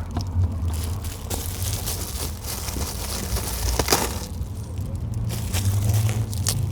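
Hands handling salad and its plastic packaging while a wrap is assembled: irregular crinkling and rustling with a few sharp clicks, over a low steady hum.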